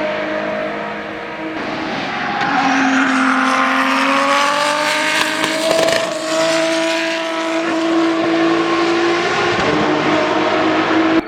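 The turbocharged inline-six engine of an Aston Martin AMR-One LMP1 prototype accelerating hard, its pitch rising and then holding high. The pitch eases briefly near the end before picking up again, and the sound cuts off suddenly.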